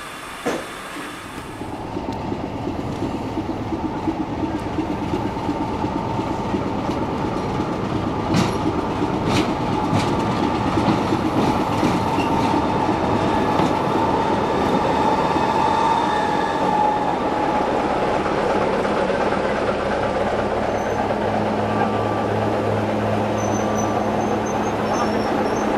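Train rolling past on the rails: a steady wheel rumble with a few clacks over rail joints and a brief wheel squeal near the middle. From about three-quarters of the way through, a steady low engine hum joins in.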